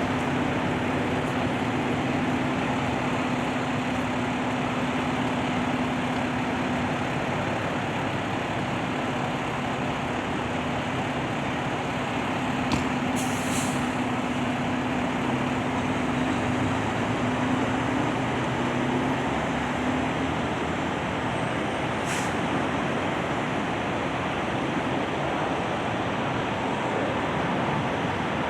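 Steady road traffic noise, with the steady hum of a large vehicle's engine that fades out about two-thirds of the way through. Two brief hissing sounds stand out, one about halfway through and one later.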